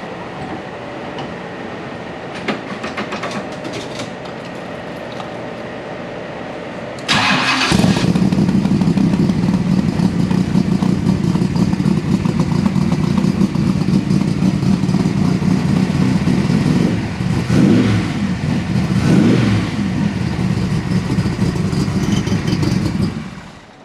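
Superformance 427 Shelby Cobra's V8 started stone cold: after about seven seconds of a steady low hum, it catches suddenly and settles into a loud, steady cold idle. It is blipped twice a little past the middle and shut off near the end.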